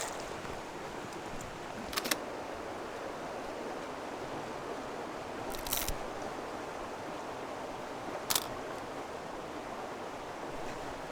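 Steady rush of a flowing river, with three brief sharp clicks spread through it.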